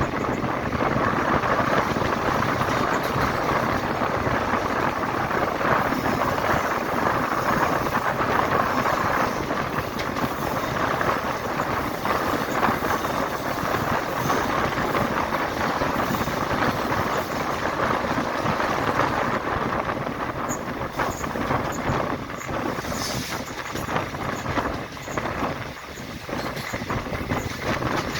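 Kalinga Utkal Express passenger train running: a steady rush of wheels on rails and moving air, with scattered faint clicks.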